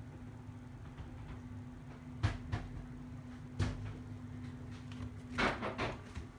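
A few sharp knocks and clatters, about two and three and a half seconds in, then a louder cluster near the end, over a steady low hum that stops at the same time.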